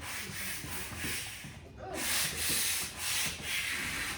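Manual air pump inflating an inflatable boat: rhythmic rushes of hissing air, about one stroke a second, growing louder from about two seconds in.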